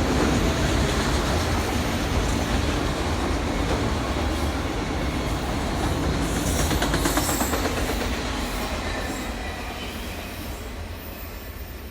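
A train rolling past on the tracks, a heavy steady rumble with faint wheel clicks over the rail joints and a brief high squeal about halfway through, then fading away over the last few seconds as it moves off.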